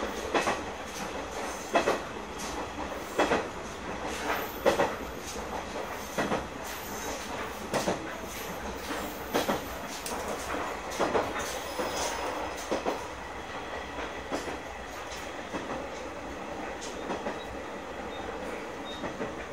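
Running sound of a KiHa 100 diesel railcar heard inside its cab: a steady rumble of the train under way, with the wheels clacking over rail joints at irregular intervals. The clacks come often through the first two-thirds and thin out near the end.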